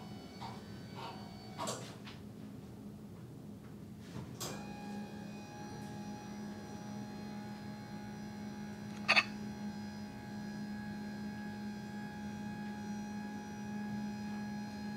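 Steady electrical hum, joined about four and a half seconds in by a thin high whine after a click. There is one sharp click about nine seconds in.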